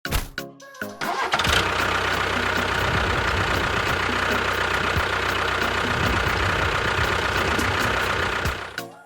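A motor starts about a second in, runs steadily with a low hum, then fades away near the end.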